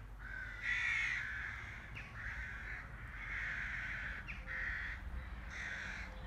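A bird outdoors giving a series of harsh, cawing calls, about a second apart, the loudest about a second in, over a steady low rumble.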